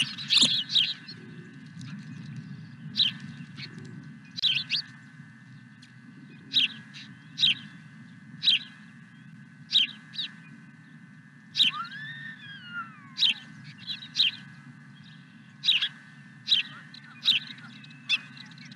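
Small birds chirping: short sharp chirps every second or so, with one longer whistle that rises and then falls about twelve seconds in, over a steady low hum.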